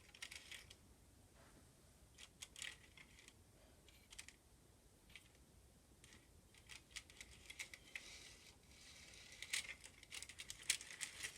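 Near silence with faint scattered clicks and short rustles of small objects being handled, more frequent in the second half.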